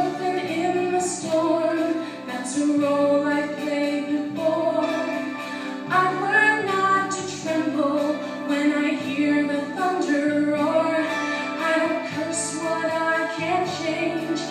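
A solo female voice singing a slow musical-theatre ballad, with instrumental accompaniment underneath, in long held notes.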